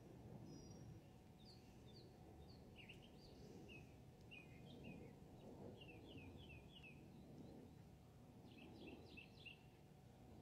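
Faint outdoor ambience: birds chirping in quick short notes, in little clusters, over a low steady background rumble.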